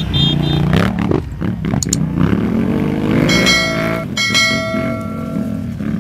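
Off-road motorcycle engines revving as the bikes ride by on gravel, the engine note climbing in pitch about halfway through. A steady high ringing tone sounds twice in the second half, the second time longer.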